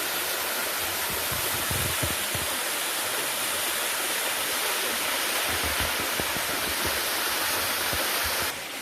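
Water cascading down the limestone rocks of a waterfall, a steady rush with some low rumbles underneath; the level drops a little near the end.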